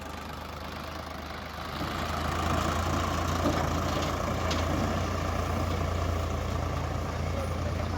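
Tractor diesel engine running steadily, its level rising about two seconds in as it is revved up, then holding.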